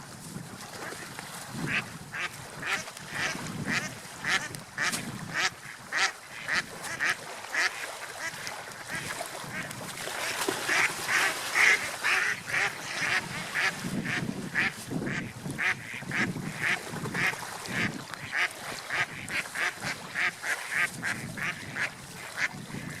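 Ducks quacking in a long run of short calls, about two or three a second, loudest around the middle, over water lapping and splashing as they feed.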